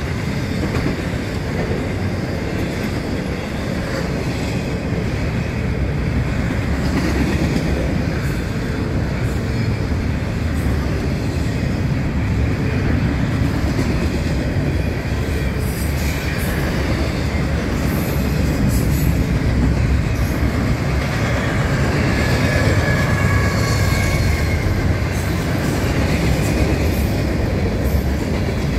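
Freight train cars rolling steadily past, first double-stack intermodal well cars and then boxcars, with a continuous rumble of steel wheels on the rails and scattered clicks over the rail joints. A faint wheel squeal comes in during the last third.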